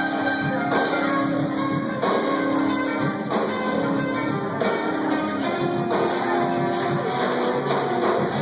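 Live band playing, with guitar in front over sustained held notes and no singing picked up.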